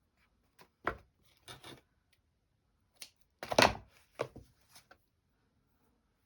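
Paper being handled and folded on a desk: a series of short taps and knocks with brief paper rustles, the loudest knock about three and a half seconds in.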